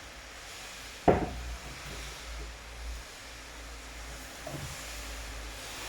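Steady rain hiss over a low rumble. A single sharp knock sounds about a second in, and a few fainter knocks follow later.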